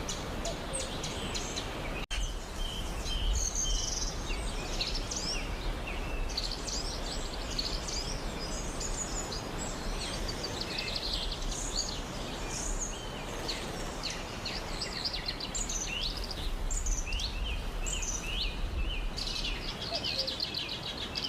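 Rainforest ambience: many small birds chirping and calling in quick, high notes over a steady background hiss, with a brief break about two seconds in.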